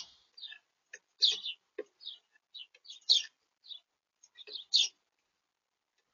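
Small birds at a feeder giving short, high chirps, about a dozen spaced irregularly, with a few soft clicks mixed in.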